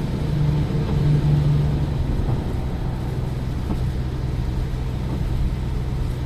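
Toyota Innova Crysta driving along, a steady low rumble of engine and road noise. A low tone swells briefly in the first two seconds, then settles.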